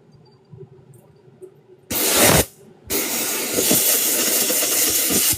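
Spraying hiss from a restoration spray tool: a short burst about two seconds in, then a longer steady spray that stops near the end.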